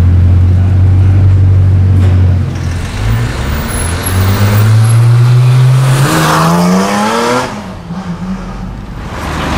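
Bugatti Chiron's quad-turbo W16 idling with a steady low drone. About two and a half seconds in this gives way to another car's engine accelerating, its pitch rising for about three and a half seconds, steepest near the end, before it falls away.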